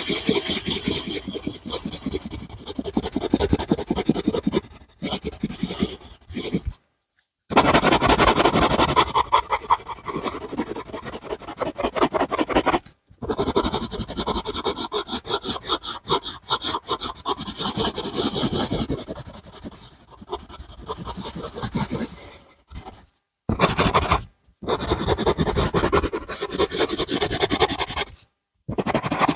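A drawing tool scribbling on paper, colouring in with rapid back-and-forth strokes, broken several times by brief dead-silent gaps.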